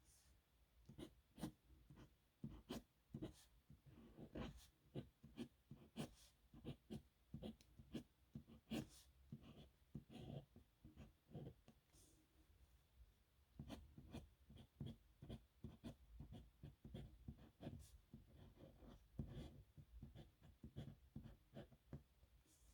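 Nib pen scratching on paper in many short, irregular strokes, faint, with a brief pause about halfway through.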